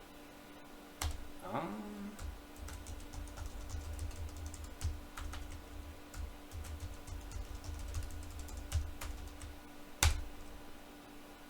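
Typing on a computer keyboard: irregular keystroke clicks for most of the stretch, with one sharper, louder key strike about ten seconds in. A short rising tone sounds about a second in, and a faint steady hum runs underneath.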